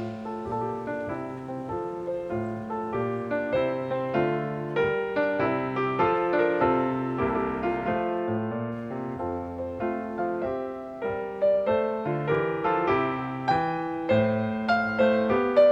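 Background piano music: a steady run of gentle notes over a bass line, cutting off abruptly at the end.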